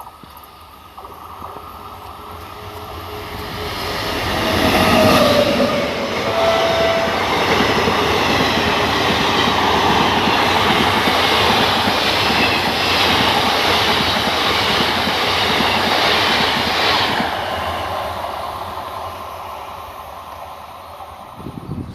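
An Indian Railways train passing at speed: it grows louder over the first few seconds, its wheels clatter loudly on the track for about ten seconds, then the sound fades away.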